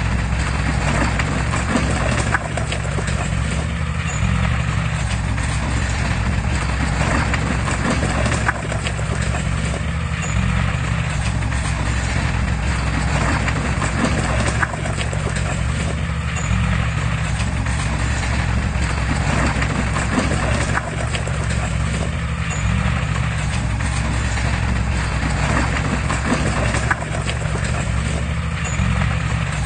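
Komatsu crawler bulldozer's diesel engine running under load, with the clanking of its steel tracks, swelling and easing about every six seconds.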